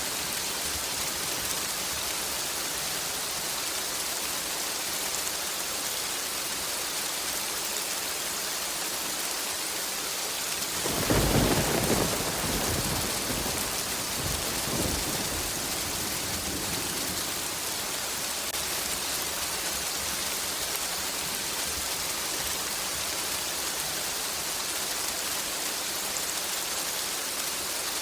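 Steady rain, with a single clap of thunder about eleven seconds in that rolls away over the next several seconds.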